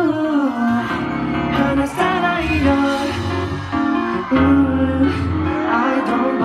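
K-pop dance track with sung vocals over a bass line, played loud over a concert sound system.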